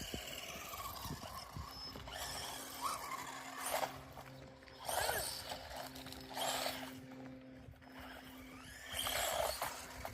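Radio-controlled cars driving in short spurts over rough ground, each spurt a brief burst of noise, with a steady low hum underneath.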